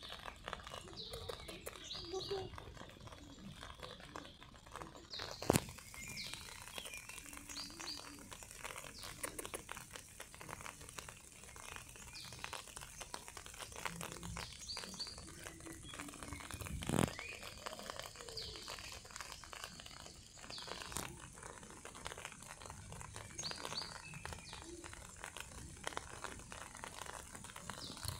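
Small birds chirping in the background, short high chirps every second or two over a steady hiss, with a few sharp clicks of handling noise.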